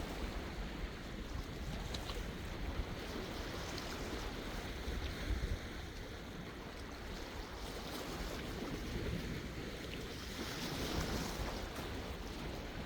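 Sea waves breaking and washing, with a low rumble of wind on the microphone. About ten seconds in, a wave swells louder into a hiss.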